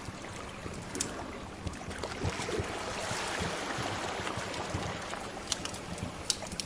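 Sea waves washing in, swelling and easing, with the sharp pops of a wood fire crackling over them.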